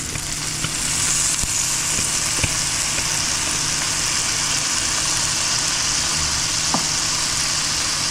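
Minced garlic sizzling in melted butter in a frying pan: a steady frying hiss that grows a little about a second in, with a few light clicks.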